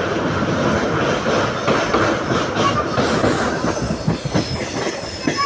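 Passenger train coach running on the track, heard from inside the coach: wheels clacking over rail joints in an irregular run of knocks, over a steady running rumble, with a faint brief wheel squeal.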